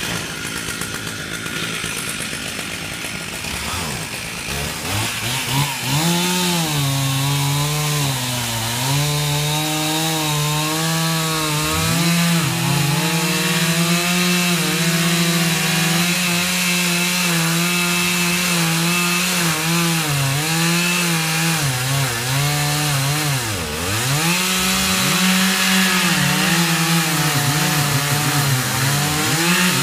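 Chainsaw cutting wood. About five seconds in it comes up to a high, steady engine pitch, and the pitch keeps dipping and recovering as the chain loads in the cut, with one deep dip about three-quarters of the way through.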